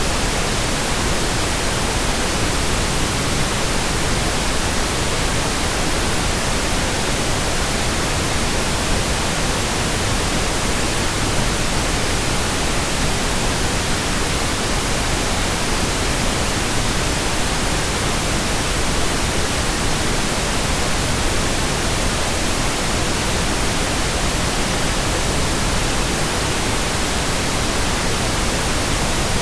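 Steady, even white noise (synthetic hiss), unchanging.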